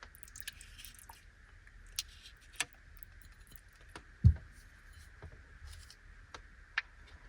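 Light plastic crinkling and small sharp clicks from handling a packaged Anpanman mandarin fruit jelly, with one dull thump about four seconds in.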